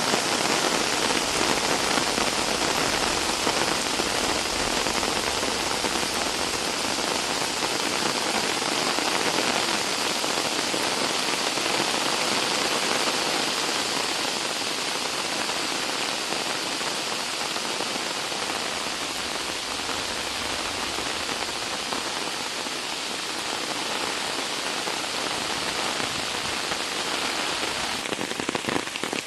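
Steady rain falling, an even hiss of drops. Near the end it changes to a closer, more uneven patter.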